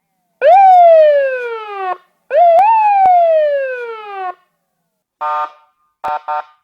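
Electronic ambulance siren giving two whoops, each a quick rise then a long falling glide. These are followed by a short steady blast and two quick beeps near the end.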